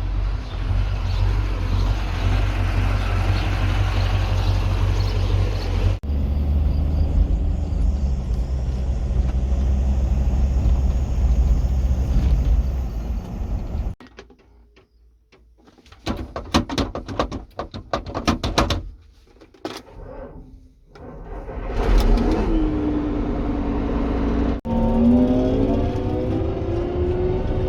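Vehicle engine running with a steady deep rumble, broken by cuts, then a stretch of irregular gusty noise; near the end an engine revs, its pitch rising and falling.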